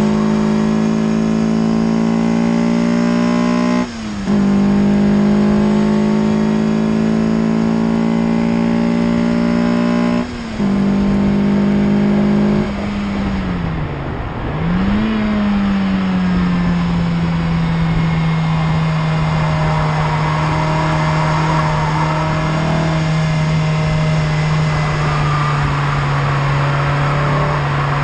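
Peugeot 306 GTi-6's 2.0-litre four-cylinder engine running hard on track, its revs held high with two brief lifts of the throttle. About halfway through the revs fall away with one short rise, then run steady at a lower pitch.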